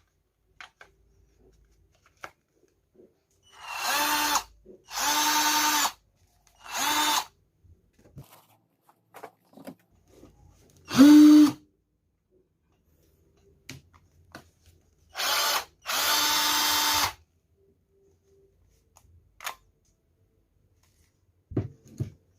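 Maktec MT081 cordless drill's motor run in six short trigger bursts of about a second each, each at a steady pitch, the fourth the loudest. Small handling clicks fall between the runs.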